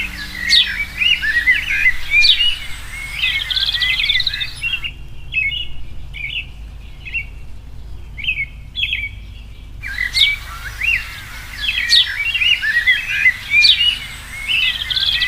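Birds chirping and singing, many short quick calls overlapping. In the middle the calls thin out and the background hiss drops away for about five seconds before the full chorus returns.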